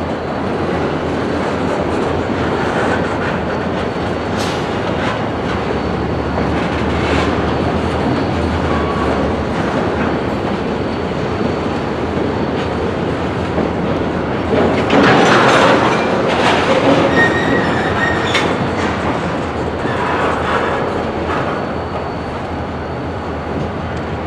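Railroad freight cars rolling along yard track, wheels clacking over the rail joints, with brief wheel squeal and a few clanks; loudest about 15 seconds in.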